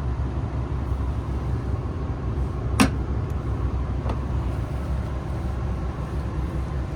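Steady low rumble of a KiHa 261 series diesel railcar, heard inside the passenger car, with a single sharp click about three seconds in and a fainter one a second later.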